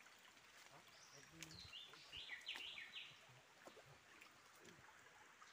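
Faint forest ambience, with a bird giving a short, quick chattering call about two seconds in.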